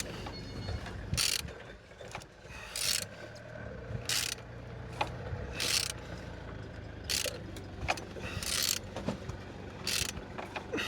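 Z18XER 1.8-litre four-cylinder engine being turned over by hand, a short burst of mechanical noise about every second and a half as it rotates. It turns freely, a sign the engine is not seized.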